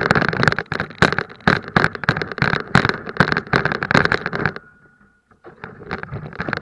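A car running with dense rattling and crackling. The noise drops off sharply about four and a half seconds in, and a shorter, quieter burst of it comes near the end.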